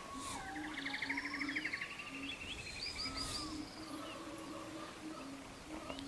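Mixed birdsong from several birds chirping, whistling and trilling, with a fast trill from about half a second to two seconds in, over a faint low tone that comes in short repeated pulses.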